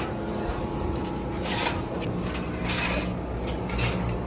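Scraping strokes, a few of them about a second apart, over a steady low hum.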